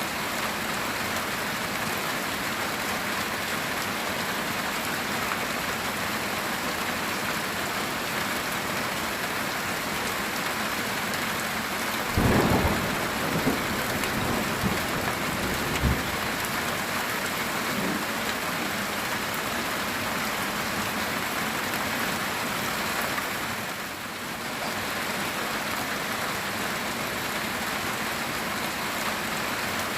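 Steady heavy rain on a metal tin roof. A thunderclap breaks in a little before the middle, followed by a few more cracks and rumble over about four seconds.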